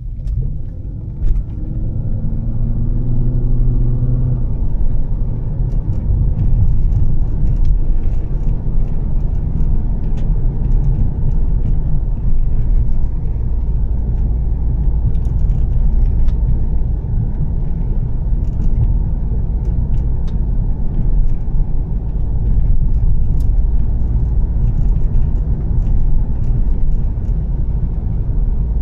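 2013 Volvo S60 T6's turbocharged inline-six with an aftermarket Heico exhaust, its pitch rising as the car accelerates for the first few seconds. It then settles into a steady low rumble of engine and road while cruising, with a short sharp knock about a second in.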